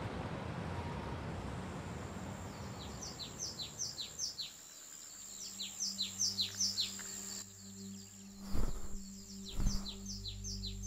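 Small birds chirping in quick series of short downward-sweeping chirps, several a second, as a morning ambience. Two loud thumps about a second apart come near the end.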